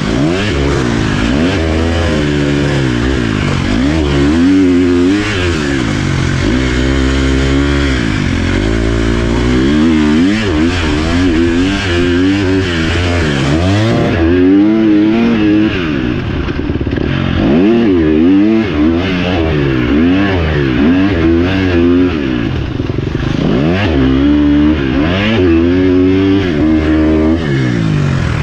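Dirt bike engine being ridden hard off-road, the pitch climbing and dropping every second or two as the throttle opens and shuts.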